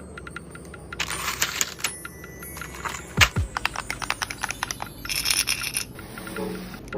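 Unboxing handling sounds: quick clicks and taps of small hard plastic items, with patches of crinkling packaging and one heavier knock about three seconds in.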